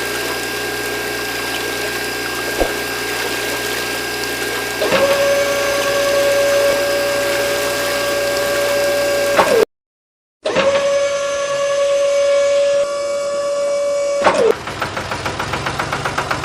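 Small hobby DC motors running with a steady hum; about five seconds in, a stronger, higher motor whine takes over and holds steady. The sound cuts out briefly near ten seconds, the whine returns, and near the end it gives way to a rapid pulsing about four times a second.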